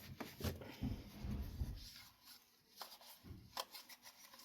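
Handling noise of glass light shades being picked up and moved: soft bumps and rubbing for the first two seconds, then a few sharp light clicks.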